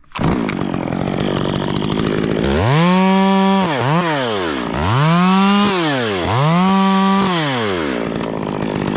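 Two-stroke chainsaw starting up and idling, then revved to full throttle three times, about a second at the top each time, before settling back to idle.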